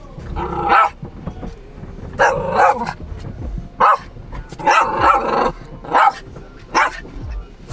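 A dog barking repeatedly in about six irregular bursts, some single short barks, others drawn out for half a second or more.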